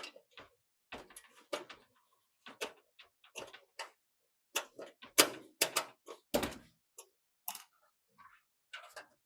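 A run of irregular clicks, knocks and thuds from computer hardware being handled, loudest from about four and a half to six and a half seconds in, with one heavier thud near the end of that stretch.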